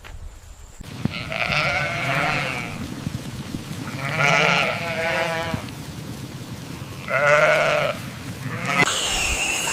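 Bleating livestock: three long bleats a couple of seconds apart, the middle one wavering. A steady hiss starts just before the end.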